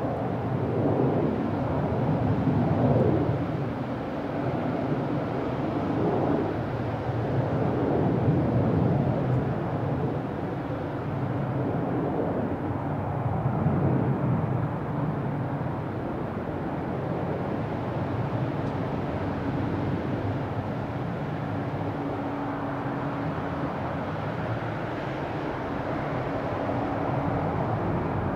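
Boeing 767 jet engines heard from outside during landing and taxi, a steady rumble with a faint steady tone in the last third.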